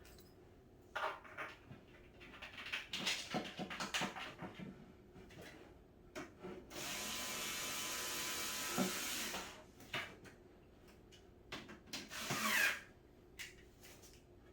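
Knocks and clatter of cat-tower parts being handled, then a power drill runs steadily for about three seconds in the middle. A shorter burst with a rising whir comes near the end.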